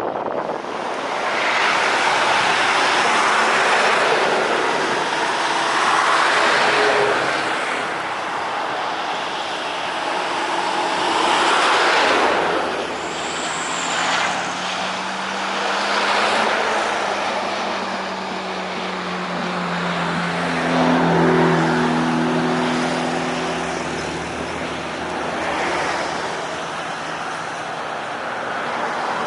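Motor vehicles passing one after another. The noise swells and fades every few seconds, and a steady engine tone slides down in pitch in the second half.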